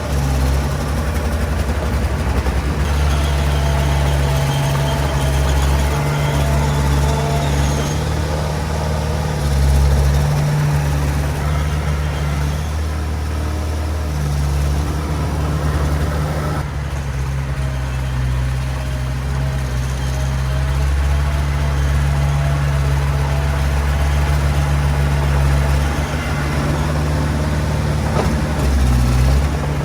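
Heavy diesel earthmoving machinery engine running steadily, its low drone rising and easing every few seconds as the load changes.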